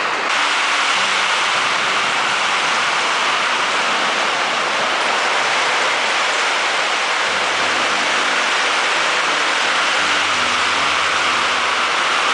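Heavy rain pouring down steadily, an even hiss of rain on a roof.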